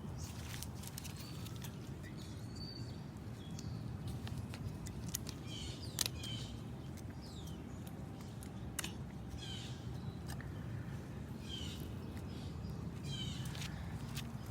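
Short, high animal calls that bend downward in pitch, repeated every second or two, over a steady low outdoor rumble with scattered sharp clicks.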